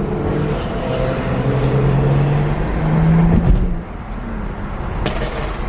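Engines of BMW performance cars running loudly, with one rev rising in pitch about three seconds in and then falling away.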